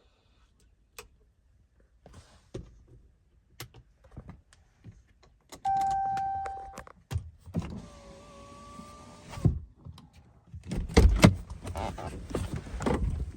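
Scattered clicks, a single steady beep about a second long, then a car's electric power window motor running for about two seconds. Loud thumps and handling noise follow near the end.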